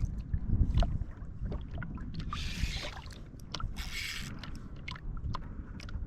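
Wind rumbling on the microphone and water moving around a fishing kayak, with scattered sharp clicks and two short bursts of hiss about two and four seconds in.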